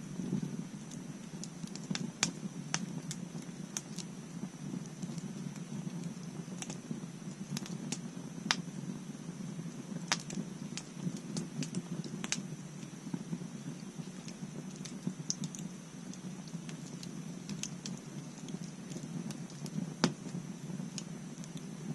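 Wood bonfire burning: irregular sharp crackles and pops over a steady low rumble of flame. The loudest pops come about two seconds in and near the end.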